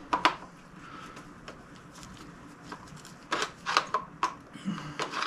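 Scattered sharp clicks and scrapes of a large flathead screwdriver working at the notch of a Benelli Vinci stock's retainer nut, one near the start and a run of them in the last couple of seconds.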